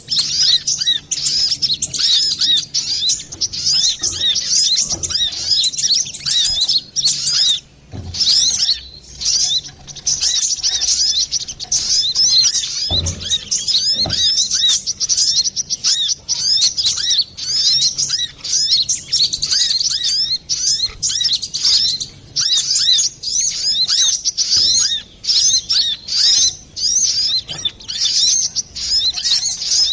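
Brown-throated sunbird (kolibri kelapa) singing a busy, non-stop stream of rapid high chirps and twitters, with only short pauses. It is the kind of lure song used to draw in or stimulate sunbirds.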